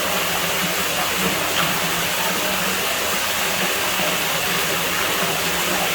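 Water running steadily into a pool villa's pool, a constant even rushing hiss.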